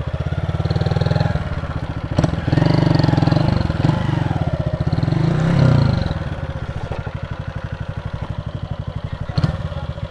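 Honda Titan 150's single-cylinder four-stroke engine running with an even putting beat. It is revved up and down between about two and six seconds in, then settles back to a steady idle. Two short clicks sound, one early and one near the end.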